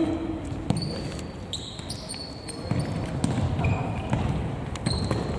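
Football being played: the ball is kicked and thuds several times, with short high-pitched tones and players' voices in the background.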